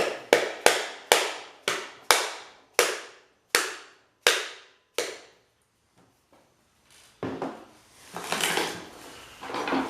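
A run of sharp metallic knocks on the pump motor's housing, each ringing briefly, at about three a second at first and spreading further apart until they stop about five seconds in. Near the end comes a fainter scraping, handling sound.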